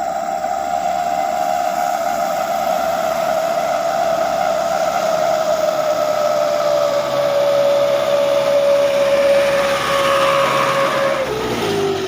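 An engine running hard with a strong whine that slowly falls in pitch, then drops more sharply and cuts off suddenly near the end.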